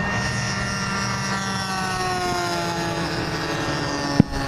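Radio-controlled model warplane engines running as the planes fly, the engine pitch sliding gradually lower over a few seconds. A single sharp click about four seconds in.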